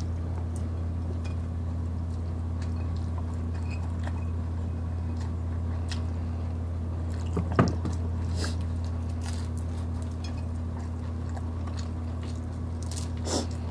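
Close-miked eating sounds: biting into and chewing food, with small wet mouth clicks, over a steady low hum. One sharp knock sounds about halfway through.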